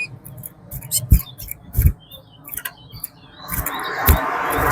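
Short chirps and call notes from caged towa-towa (chestnut-bellied seed finches) between counted songs, broken by a few dull thumps. A hiss swells up near the end.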